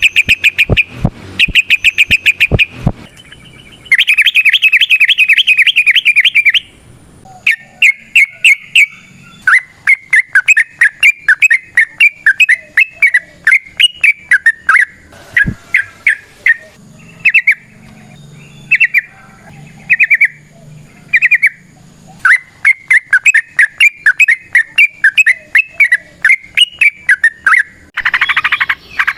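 Yellow-vented bulbul (trucukan) singing its long rapid chattering runs: fast strings of repeated bright notes, phrase after phrase with short pauses between, and a denser burst near the end.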